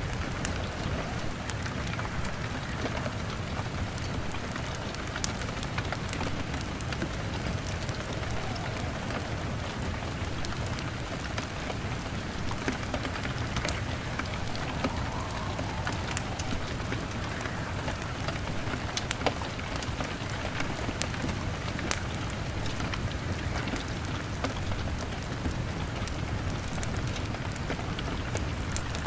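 Steady rain on a window pane mixed with a crackling log fire: a constant even patter with many small sharp pops and crackles scattered through it.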